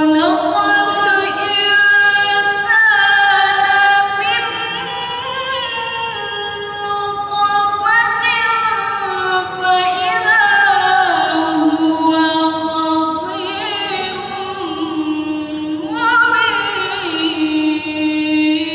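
A woman reciting the Qur'an in melodic tilawah style: long held notes with wavering, sliding ornaments, with fresh phrases beginning about eight and sixteen seconds in.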